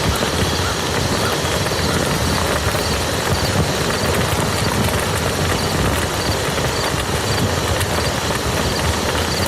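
Steady rain falling on a muddy field: a dense, even noise of drops with no letup.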